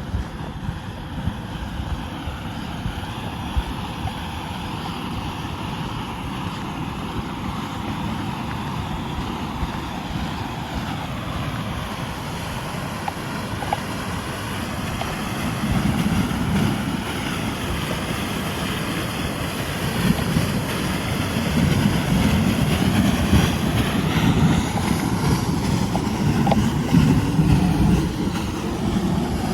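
Wind buffeting the microphone outdoors, a steady low rumble that gusts harder from about halfway through, with a faint wavering drone underneath in the second half.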